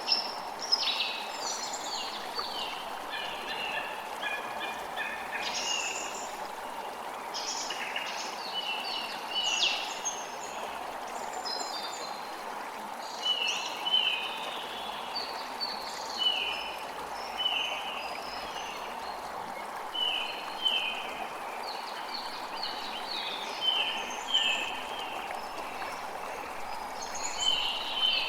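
A creek runs steadily with songbirds calling over it. Through the first half there is a jumble of varied chirps. From about halfway on, a bird repeats a short falling call about once a second.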